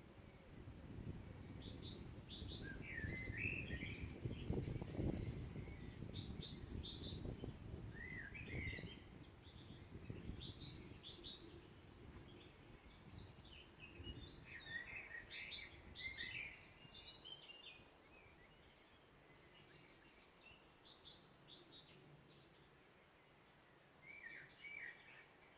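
Songbirds singing in woodland: short chirping phrases every few seconds. A low gusty rumble sits under them and dies away about two-thirds of the way through.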